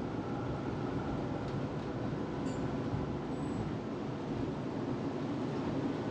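Tram running along its track, heard from inside the passenger cabin: a steady rumble of wheels and motors with a few faint clicks.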